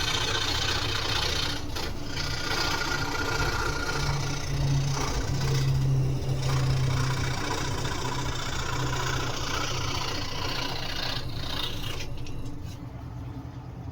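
Electric scroll saw running with its blade cutting through wood: a steady motor hum under a dense rasping buzz. Near the end the rasping drops away and only the saw's quieter running sound is left, as the blade comes out of the cut.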